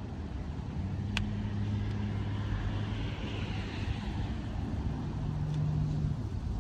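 A nearby vehicle engine running, a low steady hum that changes pitch about five seconds in, with one sharp click about a second in.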